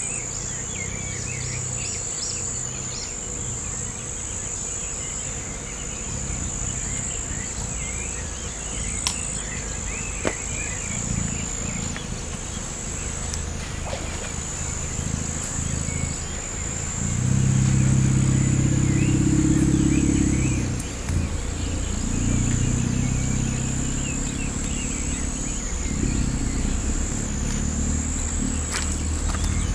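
Insects keep up a steady high-pitched drone, with scattered short bird chirps over it. A low engine hum runs underneath and swells to its loudest about two-thirds of the way through.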